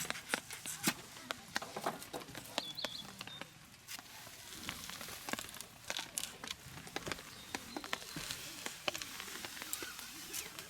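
Plastic crinkling and rustling as it is handled, with many irregular small clicks and ticks. A brief high chirp comes about three seconds in.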